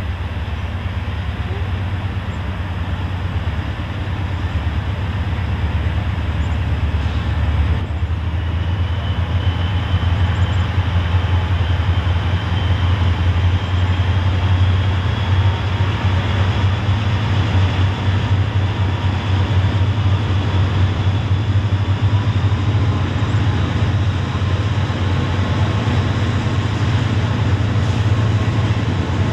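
Diesel freight locomotives approaching with a steady low engine rumble that slowly grows louder.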